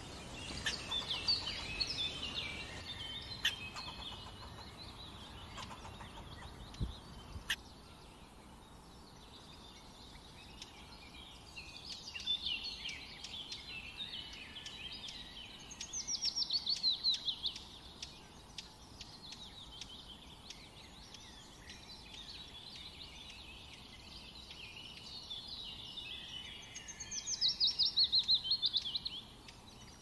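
Songbirds singing and chirping over a steady outdoor hiss, with a fast trill of quickly repeated falling notes about sixteen seconds in and again near the end.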